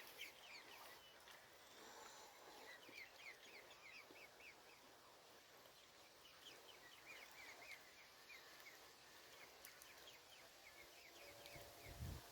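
Faint bird chirping: runs of quick, high chirps, several a second, coming in a few separate bouts over quiet outdoor background.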